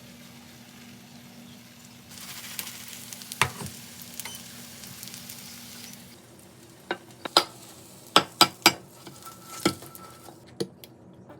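Okonomiyaki frying in a pan, sizzling for a few seconds, then a series of sharp, loud clacks of a utensil against the pan.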